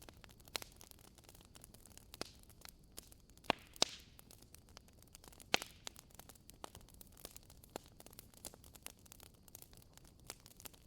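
Wood fire crackling in a fireplace: faint, irregular snaps and pops over a low hiss. There are a few sharper pops about a third of the way in and near the middle, one followed by a brief hiss.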